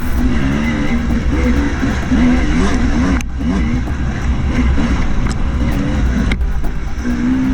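Dirt bike engines running, their pitch rising and falling with the throttle, over background music. Two short clicks come about three seconds apart.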